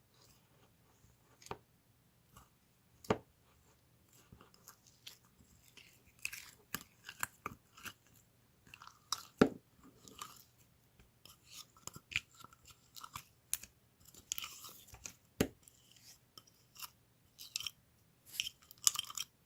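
Irregular close-up crunching and clicking sounds, scattered sharp clicks with softer crackles between them, busier in the second half.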